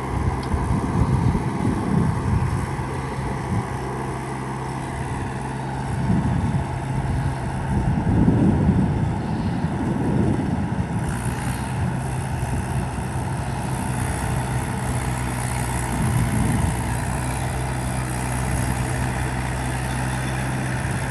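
Mahindra 585 tractor's diesel engine running steadily, its note swelling louder several times, most strongly about eight to ten seconds in.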